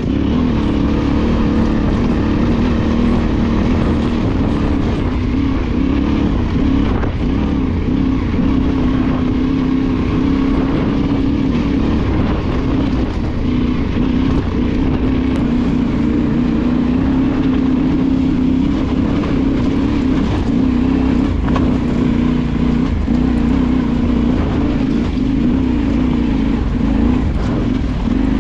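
Motorcycle engine running at fairly steady revs while riding off-road, its pitch wavering slightly up and down.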